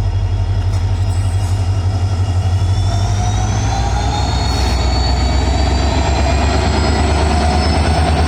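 WDP4D diesel locomotive's engine running with a heavy low throb. From about three seconds in, a high whine rises in pitch and then holds steady.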